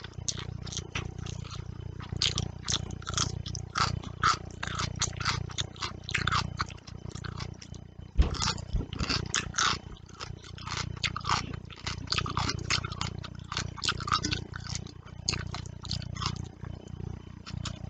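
Close-miked mouth sounds of someone eating fish curry and rice: wet chewing, lip smacks and clicks, several a second, over a low steady hum. A single thump sounds about eight seconds in.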